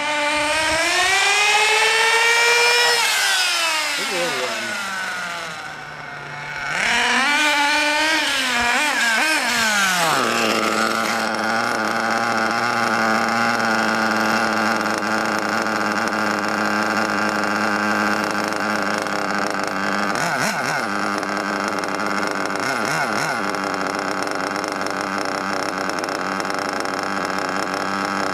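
GRP nitro RC engine running during break-in, still not fully broken in. Its pitch rises and then falls away twice, then holds steady at one pitch for the rest.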